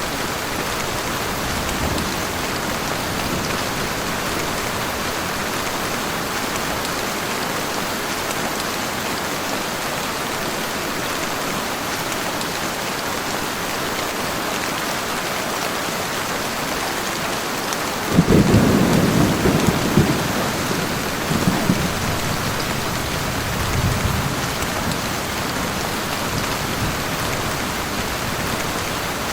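Heavy rain falling steadily. About two-thirds of the way through, thunder rumbles in suddenly, loudest for a couple of seconds, then fades out in two weaker rumbles.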